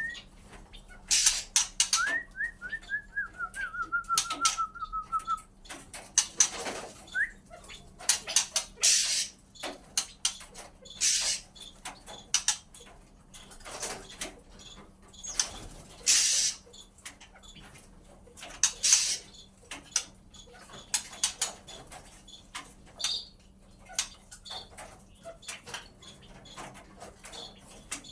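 A crossbred white-rumped shama and oriental magpie-robin giving a falling run of short whistled notes about two seconds in and a brief rising whistle a few seconds later, then many short rustles and taps of the bird flapping and moving about.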